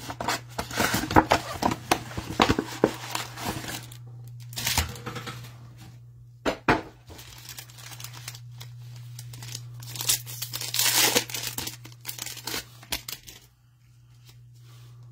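Plastic wrapping crinkling and tearing as a trading-card mega box and its packs are opened, in bursts with a couple of sharp clicks between them, over a steady low hum.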